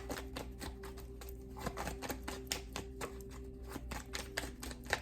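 Tarot cards being shuffled by hand: a quick, irregular run of light clicks and flicks as the cards slap together, with a faint steady tone underneath.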